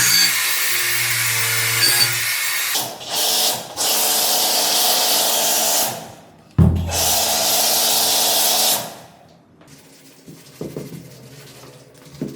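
A power tool runs with a loud, even rushing noise for about six seconds, stops briefly with a thump, then runs again for two more seconds before cutting out. Quieter background music with light percussion continues underneath and after.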